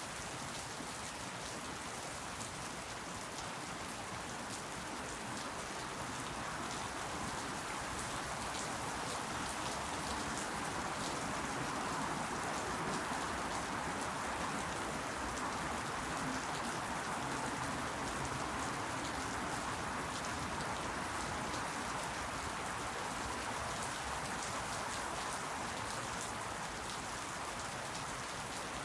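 Steady rain falling and pattering on surfaces, an even hiss with fine drop ticks, swelling slightly in the middle.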